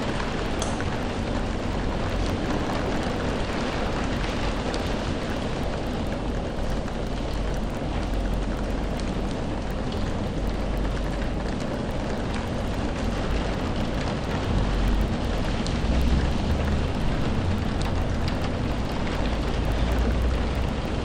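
Steady rain falling, with a deep low rumble underneath that swells a little in the last third.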